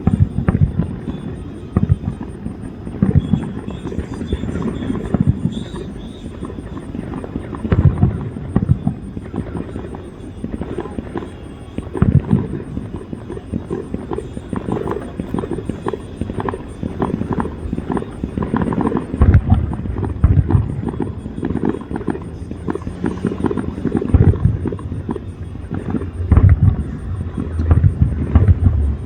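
Fireworks display: a continuous run of bursts and booms with crackling between them, the heavier low booms coming thicker in the last third.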